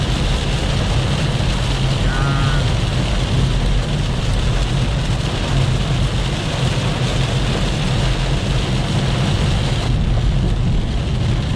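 Diesel Volkswagen Polo driving through heavy rain: a steady rush of rain and wet-road noise over a low engine drone.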